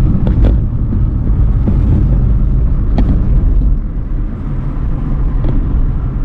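Steady low rumble of a moving car, road and wind noise, with a few sharp ticks: near the start, about three seconds in, and again near the end.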